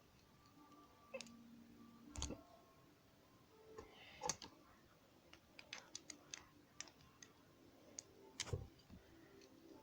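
Plastic Lego pieces clicking and knocking as they are handled and pressed together: scattered light clicks, a quick run of them about six seconds in, and two duller thumps.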